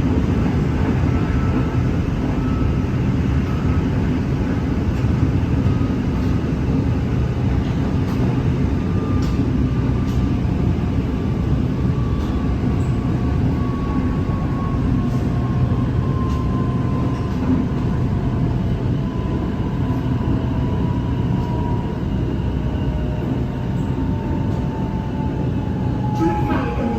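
SRT Red Line electric commuter train (Hitachi AT100) running: steady low rumble of the wheels on the track with a thin electric motor whine that slowly falls in pitch as the train slows.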